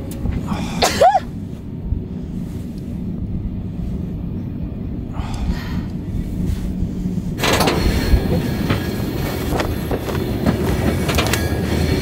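Mauritania Railway iron ore freight train running, heard from on board an open ore wagon: a steady low rumble with rattling, and a short squeal about a second in. From about seven seconds in the noise turns louder and fuller, with many small rattles and knocks.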